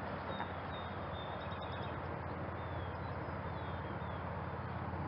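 Steady outdoor background noise with a few faint, brief high chirps of small birds scattered through it.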